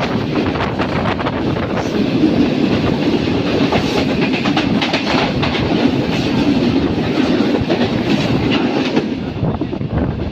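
Moving train's wheels clattering over the rail joints: a steady rumble with many short clacks.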